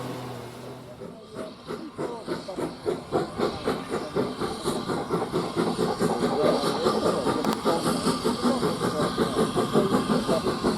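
Steam locomotive working hard, its exhaust beats coming faster and louder as the train gets under way, with steam hiss.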